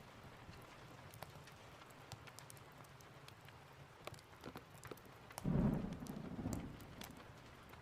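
Steady rain with the sharp pops and crackles of a wood fire scattered through it. About five and a half seconds in, a short low rumble of thunder swells for about a second and fades.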